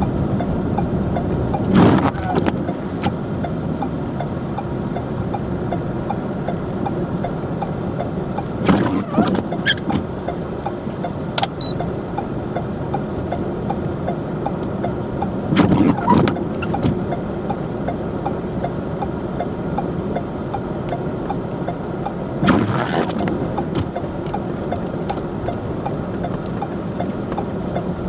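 Car driving on a snow-covered road: steady road and engine noise with a fine regular ticking, and a louder swell about every seven seconds.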